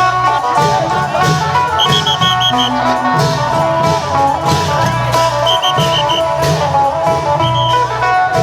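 Isan procession music: a phin, the plucked northeastern Thai lute, playing a fast melody over long drums (klong yao) and cymbals keeping a steady beat.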